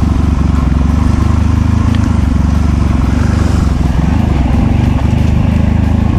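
Off-road dirt bike engine running steadily at a fairly even pitch as the bike is ridden along a trail, loud and close to the microphone.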